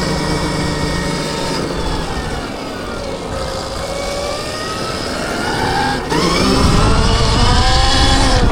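Stark Varg electric dirt bike's motor whining under throttle, its pitch falling as the bike slows and then climbing again as it accelerates, louder from about six seconds in.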